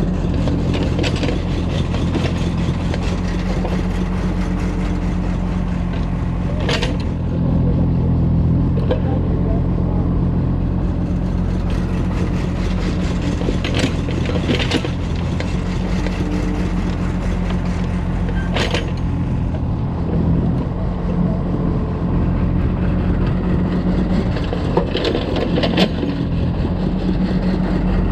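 Excavator at work: its diesel engine runs steadily, with a few short, sharp metal clanks scattered through.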